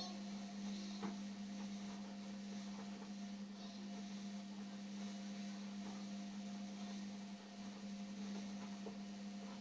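Steady hum of an Indesit washing machine running its wash cycle with the drum turning, with a few faint clicks.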